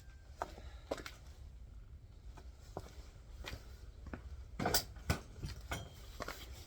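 Scattered light wooden knocks and clicks from firewood work, with a louder pair of knocks close together about five seconds in.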